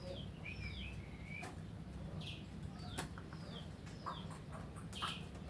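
A pet black bird chirping over and over in short, high, falling notes, about two a second, with a few sharp clicks or taps in between.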